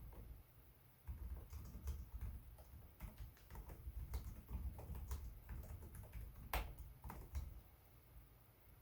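Typing on a Lenovo Legion 5 Pro laptop keyboard: a quick, uneven run of key clicks that starts about a second in, with one clearly louder keystroke late on, then thins out near the end.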